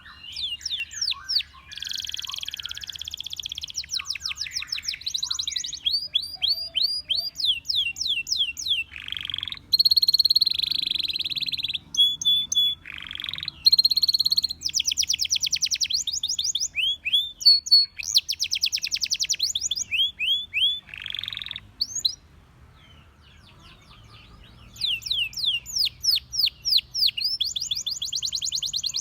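Canary singing: fast runs of repeated chirps and rolling trills, broken by a pause of a couple of seconds before the song starts again.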